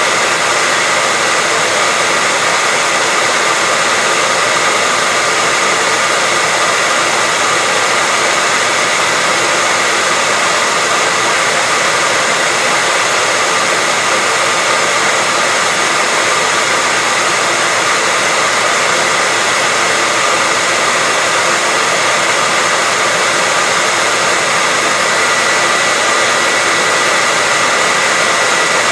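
Hair dryer blowing steadily: an even, unbroken rush of air with a faint high whine.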